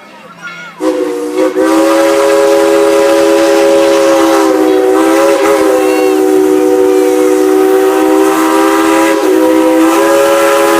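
Steam locomotive whistle blowing one long, loud blast: several steady notes sound together as a chord. It starts about a second in.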